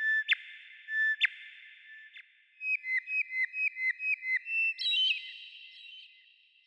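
A songbird singing clear whistled notes: a few held notes to begin, then a quick run of about eight short falling notes at roughly four a second, ending on a higher note about five seconds in, with a reverberant wash.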